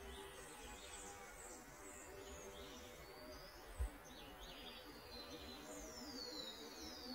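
Faint chirps and short falling whistles of small birds, several in quick succession near the end, over a steady background hiss. A single low bump about four seconds in.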